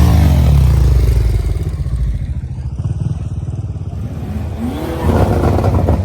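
A car engine revving hard, loudest at the start, then settling to a lower steady run. Near the end come a couple of quick rev blips that rise and fall in pitch.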